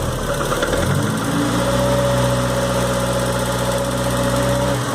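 Volkswagen AP 1.8 four-cylinder engine revved up from idle about a second in and held at steady raised revs, then let back down to idle near the end. At the raised revs the dry knock it makes at idle goes away; a mechanic ruled out the valves, and another suggested piston slap.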